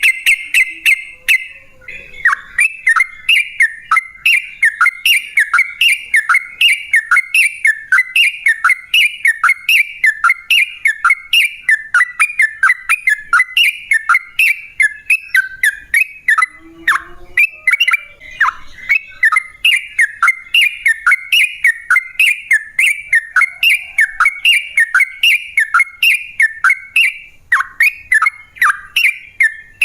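Yellow-vented bulbul (trucukan) singing a long unbroken series of quick bubbling, down-slurred notes, about two to three a second.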